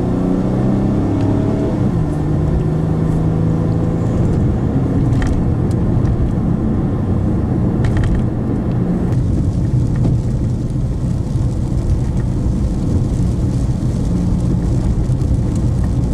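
Car driving at speed, heard from inside: the engine note climbs and then drops about two seconds in, then steady engine and road rumble.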